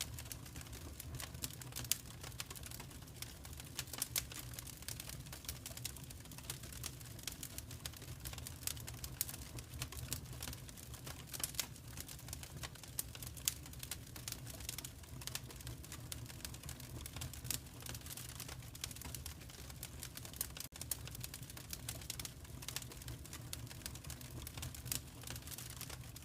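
Wood fire crackling: a steady stream of irregular sharp pops and snaps over a low, steady rumble.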